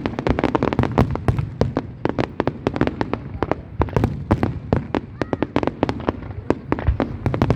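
Fireworks going off in a dense barrage: many sharp cracks and bangs in quick succession, several a second, over a low rumble.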